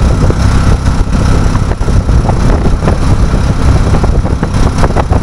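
A motor vehicle running on the road, with loud steady engine and road rumble and scattered knocks and rattles.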